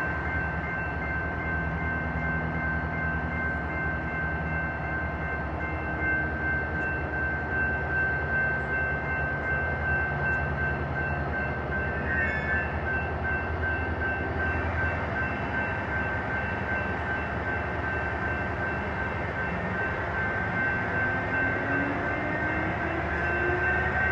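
Passenger train running, with a steady low rumble and a steady high-pitched whine; about twenty seconds in, a tone starts rising in pitch as the train speeds up.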